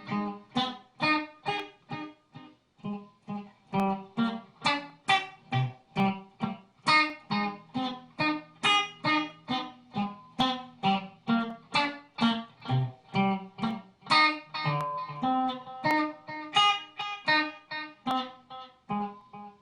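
A plucked string instrument picking an instrumental break of single notes, about two a second, each note ringing briefly and fading.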